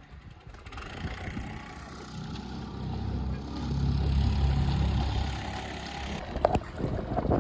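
Small outboard motor on an inflatable dinghy running, picking up revs and then throttled back about six seconds in, followed by a couple of knocks.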